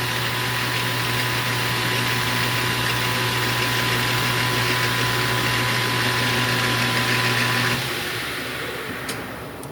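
Metal lathe running steadily with a low hum and a thin high whine, then switched off about eight seconds in, its sound dying away as it winds down; a couple of sharp clicks follow near the end.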